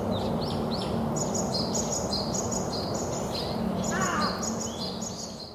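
Birds chirping: short high chirps repeat in a regular two-pitch pattern, about three a second, over a steady background noise. A few lower, falling calls come about four seconds in, and the sound fades out near the end.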